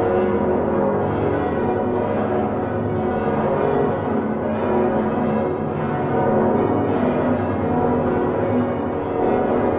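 Many large swinging church bells of Utrecht's Dom tower, including Geryt van Wou's 1505 bells on straight headstocks, ringing together in full peal. Their strokes overlap into a continuous, dense clangour.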